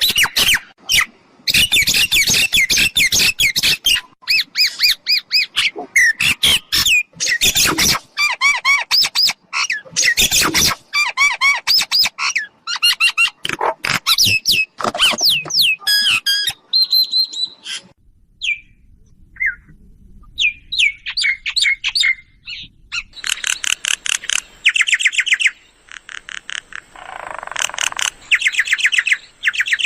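Myna calling loudly and continuously: rapid runs of varied whistled notes and harsh chattering squawks, with a brief quieter lull a little past halfway.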